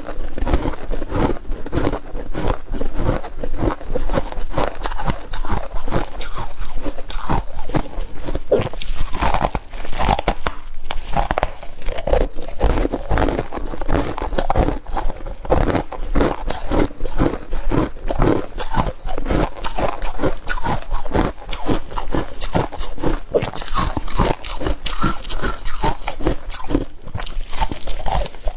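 Close-miked biting and chewing of flaky freezer frost: a continuous run of crisp crunches as mouthfuls of ice flakes are bitten and broken down.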